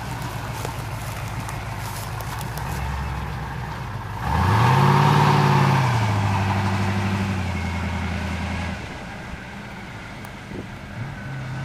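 A twin-turbocharged 350 small-block V8 engine running steadily, then revved about four seconds in. The pitch climbs quickly, holds for a couple of seconds and falls back, and the engine settles to a lower, quieter note; the pitch starts climbing again near the end.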